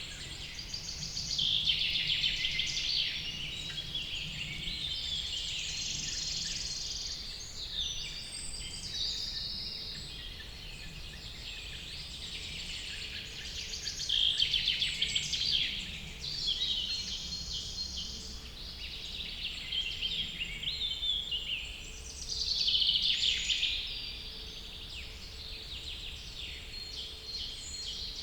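Several songbirds singing over one another in a dense forest chorus, high rapid overlapping phrases with louder outbursts every few seconds.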